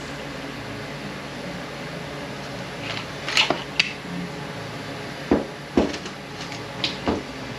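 Metal clinks and clanks of tools and parts being handled while taking apart a 9T65 automatic transmission: about six sharp knocks, starting about three seconds in, over a steady hum.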